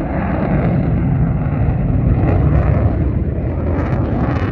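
Military jet aircraft engine noise during a display pass, a loud jet rumble that swells to a peak about halfway through and then eases slightly.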